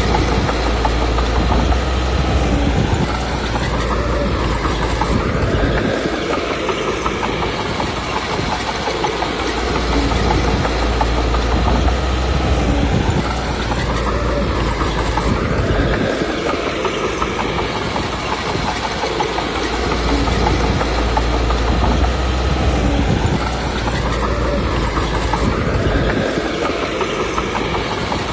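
Komatsu D21P crawler bulldozer's diesel engine and tracks working continuously. The heavy low engine sound swells for several seconds and then eases, in a cycle that repeats about every ten seconds, typical of the dozer loading up on a push and easing off between pushes.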